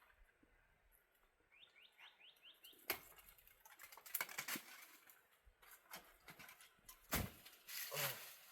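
A small bird gives a quick run of about seven short rising chirps, followed by rustling, crackling and a couple of sharp knocks from handling something close by.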